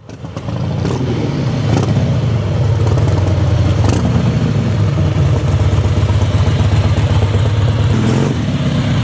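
An engine running steadily with a low rumble, with a few brief knocks over it.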